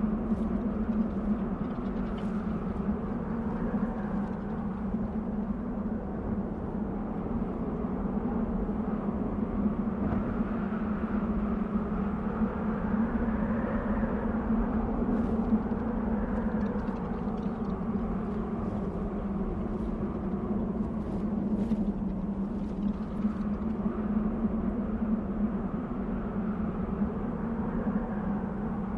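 Desert wind blowing: a steady low howl with higher whistling tones that slowly swell and ease off.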